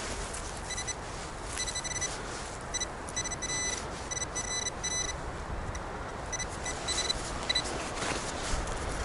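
Metal detector giving short, high, flat beeps in quick clusters as it signals targets under the coil, over a steady background rush of wind and road noise.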